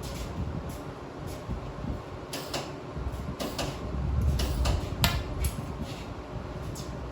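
Scattered knocks and clicks of parts being handled and fitted, over a low rumble that swells and fades, with the sharpest knock about five seconds in.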